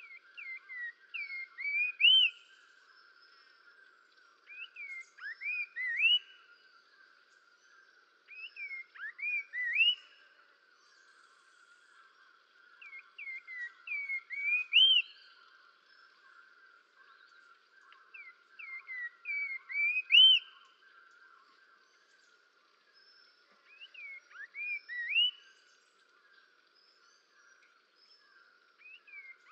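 A songbird repeating one short song every four to five seconds: a quick run of whistled notes that grows louder and higher, ending in a loud rising whistle. A steady, faint high-pitched chorus runs underneath.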